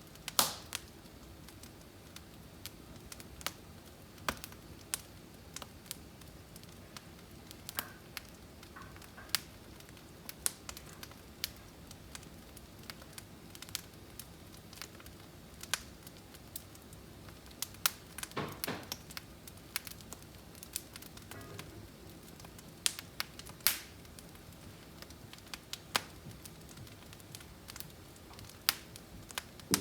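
Firewood burning, crackling with irregular sharp pops over a soft steady rumble of the flames, with a quick run of pops about 18 seconds in.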